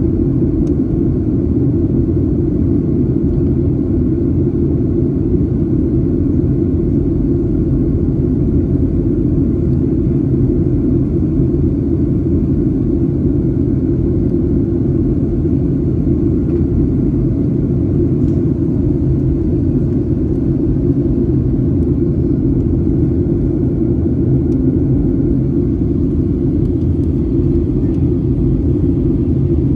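Steady low rumble of jet airliner cabin noise, engines and airflow heard from a passenger seat, holding even with no change in pitch or level.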